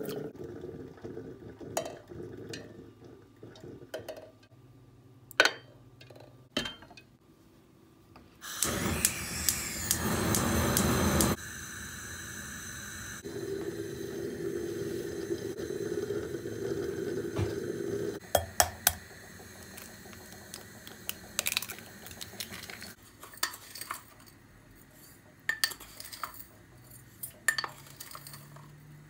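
Kitchen dishes and cutlery clinking and knocking at intervals. About nine seconds in, liquid runs or pours loudly for about three seconds.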